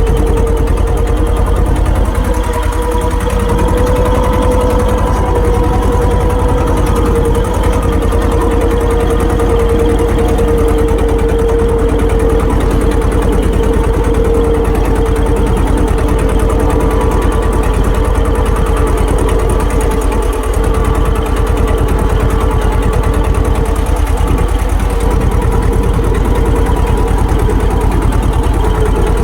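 Swaraj tractor's diesel engine running at a steady speed, with a constant droning tone over the even engine beat.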